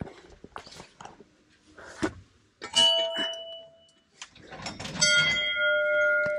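Hindu temple bells struck twice, a couple of seconds apart, each a single clang that rings on. The second bell has a different pitch and rings longer than the first. A few light knocks come before them.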